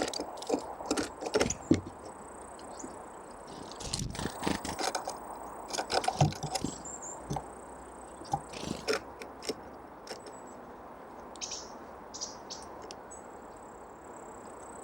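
Small birds pecking and handling seeds, giving irregular sharp taps and scrapes, with a few short high call notes.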